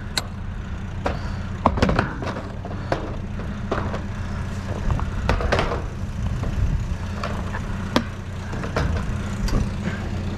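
Scattered knocks, clicks and rattles of junk being shifted around inside a dumpster, over a steady low hum. The sharpest knocks come about two and eight seconds in.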